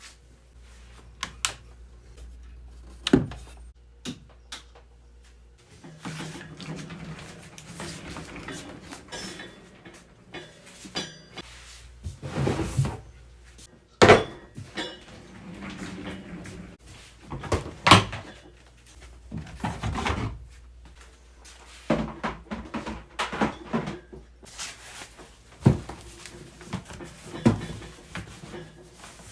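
Irregular clicks, knocks and thuds of hard plastic gear cases being handled: latches and lids opened and closed, and cases set down.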